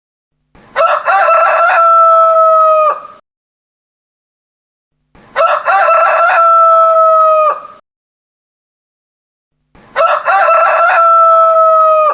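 Rooster crowing three times, about every four and a half seconds. Each crow opens with a few short broken notes and ends on a long, steady held note that cuts off sharply, with dead silence between crows.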